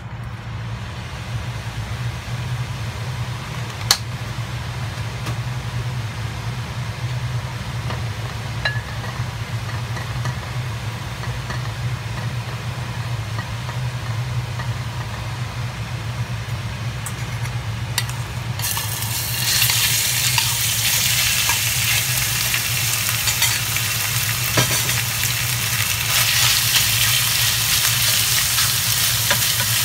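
Raw marinated chicken breast strips drop into hot oil in a stainless steel wok about 19 seconds in and sizzle loudly and steadily while a wooden spatula stirs them. Before that there is only a steady low hum, with a sharp click about 4 seconds in.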